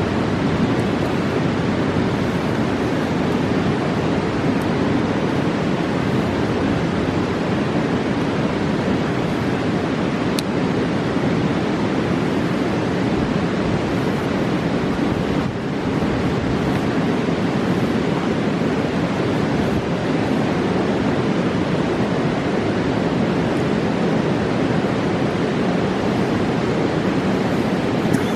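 Steady rushing of a fast-flowing mountain river, an even, unbroken water noise.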